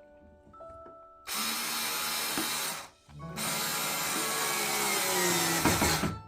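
Power drill running in two bursts, the first about a second and a half long and the second about three seconds, with the motor's whine dropping in pitch as it slows at the end.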